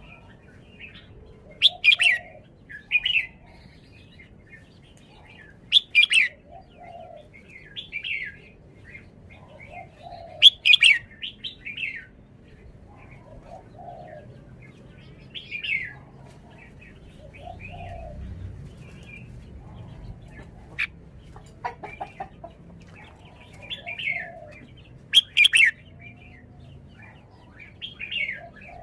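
Red-whiskered bulbul singing short warbled phrases, one every two seconds or so, with a softer lower note between phrases and a few sharp clicks about two-thirds of the way through.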